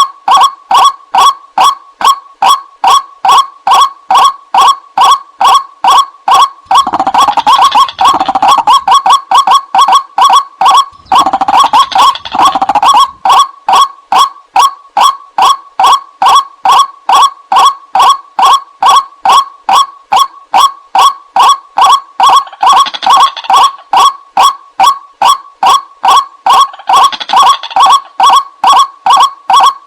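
White-breasted waterhen (ruak-ruak) lure call: a steady, repeated croaking note about two to three times a second. Four times it thickens into a denser stretch of overlapping calls, twice about a quarter of the way in and twice more faintly near the end.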